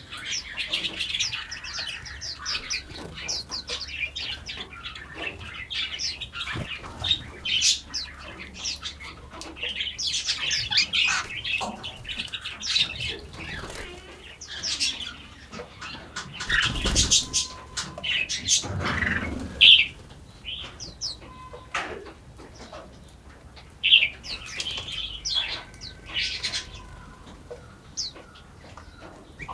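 Several songbirds chirping and singing in a forest, short overlapping calls and song phrases. About halfway through, a brief louder burst of noise with a deep component stands out.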